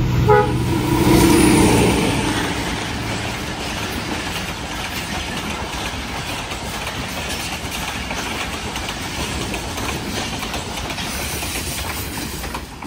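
Express passenger train running through at speed behind a ZCU-20 diesel-electric locomotive. It is loudest in the first two seconds, then the coaches' steady wheel-and-rail rumble runs on and drops away near the end.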